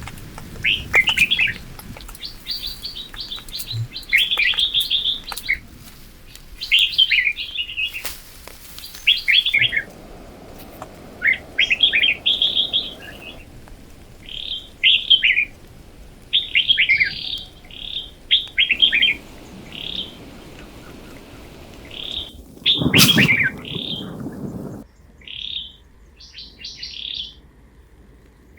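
Small birds chirping in short, repeated phrases every second or two. A single thump with a brief low rumble cuts in about two-thirds of the way through.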